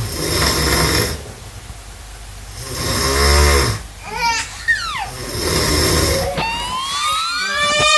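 A person snoring, three rasping breaths a couple of seconds apart. About two-thirds of the way in, a rising, gliding wail with several pitch lines starts over it.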